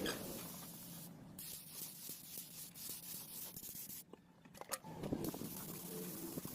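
Hand rubbing and scrubbing on a Kawasaki ZX4R engine cylinder, a steady scratchy noise with small clicks, easing off briefly about four seconds in.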